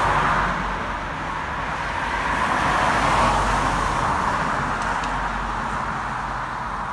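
Road traffic: a steady rush of passing car noise with a low rumble underneath, swelling slightly about three seconds in.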